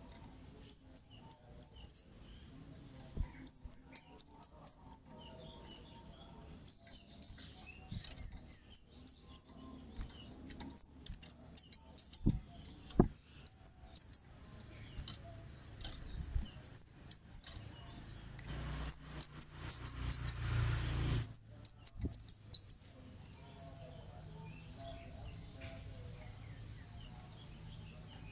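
Cit kemade bird calling: loud, high, sharp chirps in quick runs of three to six notes, repeated every second or two with short pauses between runs.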